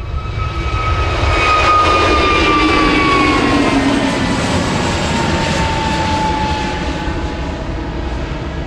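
Airliner passing close by on the runway, its engine whine falling steadily in pitch as it goes past. The noise builds over the first second, is loudest around two seconds in, then slowly fades.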